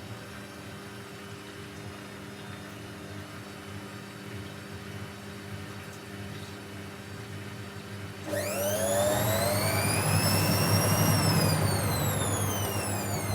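Techwood WB 91042I washing machine running with a steady low hum. About eight seconds in, the drum motor speeds up, which is typical of the start of a spin: the sound gets much louder, and a whine rises sharply in pitch, holds, then falls away again.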